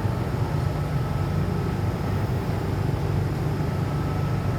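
Steady low rumble inside an MTR M-Train carriage as the train runs on the track, with a faint thin tone near the end.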